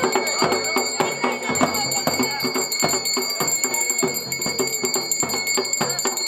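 Dhol and damau drums playing a fast, dense run of strokes, with a steady high ringing tone over them.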